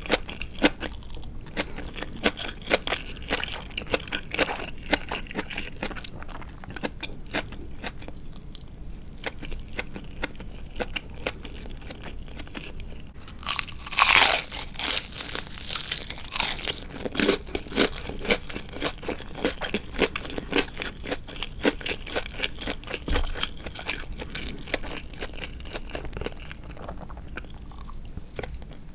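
Close-miked crunchy chewing of deep-fried marinated chicken with a crisp coating, a steady run of small crunches, with a loud burst of crunching about halfway through.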